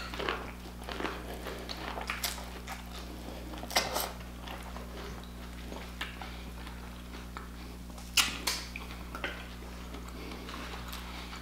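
A person biting into a buttered, sauce-coated ear of boiled corn on the cob and chewing it with the mouth close to the microphone: scattered wet smacks and crunches, with a louder pair about eight seconds in. A steady low hum runs underneath.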